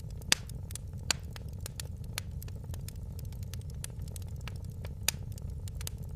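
Wood fire in a fireplace crackling: irregular sharp pops and ticks over a steady low rumble, with louder pops about a third of a second in, at about one second, and near five seconds.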